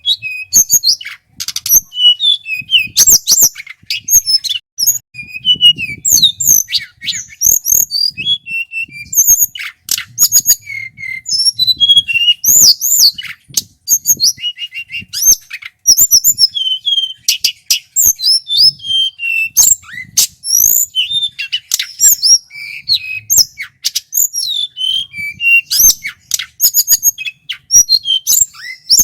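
Male tledekan gunung, a small Indonesian flycatcher, singing loud and without pause: quick, varied high whistles and trills broken by sharp, clicky notes.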